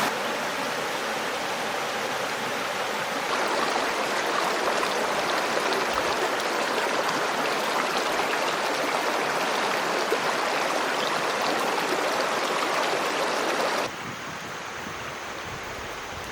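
Running water rushing steadily, like a stream. It drops abruptly to a quieter rush about fourteen seconds in.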